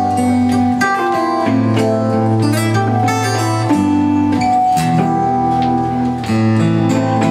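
Live band music with guitar prominent, playing over held bass notes that change every second or two.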